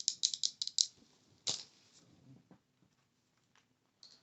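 Fingers tapping quickly: a run of about eight crisp clicks in the first second, one louder click about a second and a half in, then a few faint ticks.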